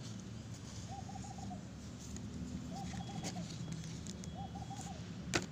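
A bird calling: a short phrase of four soft notes, heard three times about two seconds apart, over a steady low hum. A single sharp click comes just before the end.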